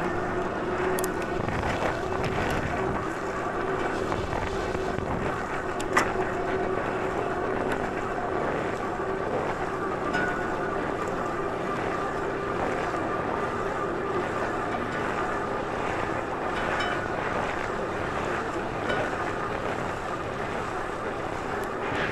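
Steady riding noise with wind on the microphone and a faint steady hum, broken by one sharp click about six seconds in.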